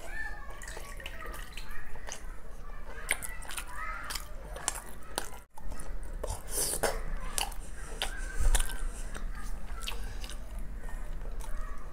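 Close-miked wet eating: chewing and sucking on soft, syrup-soaked Indian sweet balls, with many small squishy mouth clicks and syrup dripping. There is a brief break about halfway.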